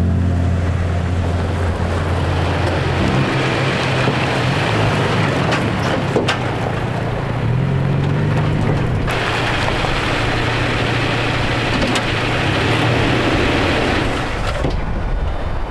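A vehicle driving: a steady low engine drone over road and wind noise, with the engine note rising briefly about halfway through.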